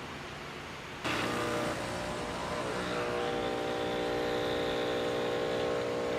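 Breville espresso machine's pump starting about a second in and running with a steady hum while it pushes water through the portafilter to brew a single shot.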